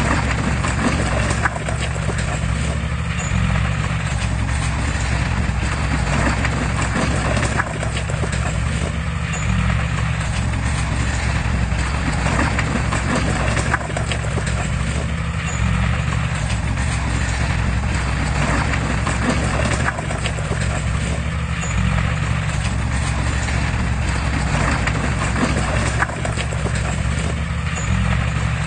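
Heavy diesel machinery running steadily, with a low engine drone under a rhythmic metallic clatter. The whole pattern repeats about every six seconds.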